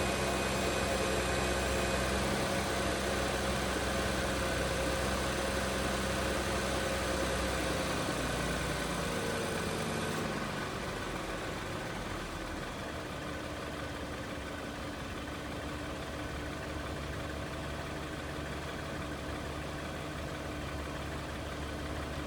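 2017 Audi Q7's 3.0-litre supercharged V6 idling after a cold start. About ten seconds in, the idle steps down to a lower speed and the engine gets a little quieter, as the fast cold idle settles.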